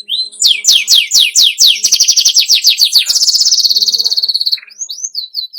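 Domestic canary singing a fast, continuous song: a run of rapid downward-sweeping notes, about six a second, then a quick high trill lasting over a second, and a few more falling notes near the end.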